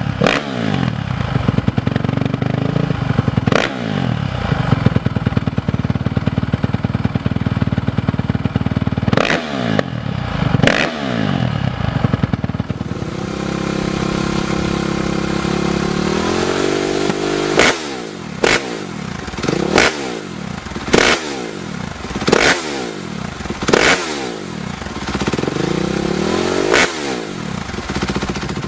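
Motocross or enduro motorcycles running hard, several riding past one after another. In the middle a single engine holds a steady note, then climbs in pitch as it revs up. Near the end a quick run of pass-bys comes about every second and a half.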